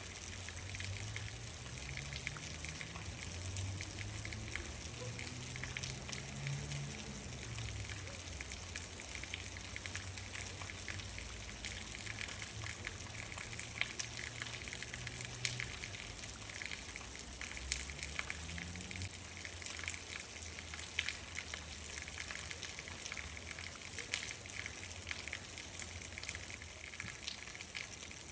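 Steady rain falling, a dense hiss with many sharp individual drop ticks. A low rumble with a gliding pitch swells underneath for the first several seconds and again about two-thirds of the way through.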